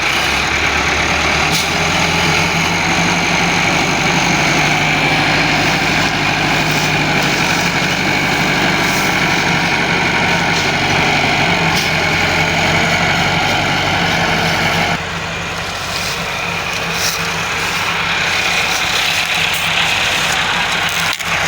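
Tractor diesel engine running steadily, its level dropping slightly about fifteen seconds in.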